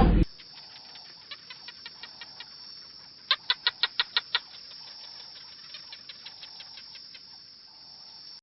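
A bird chirping in short, sharp notes: scattered single chirps, with a quick burst of about seven loud chirps, some six a second, near the middle. A loud animal call cuts off just as it begins.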